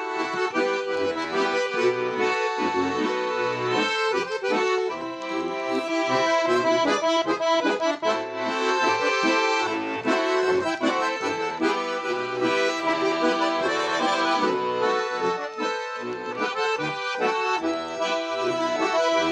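Russian garmon (button accordion) playing an instrumental interlude of a folk-style song, held chords over a steady rhythmic accompaniment.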